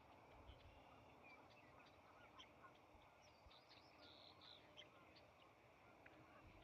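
Faint birds calling: many short, high chirps scattered throughout, with a couple of brief held calls about four seconds in, over a quiet background hiss.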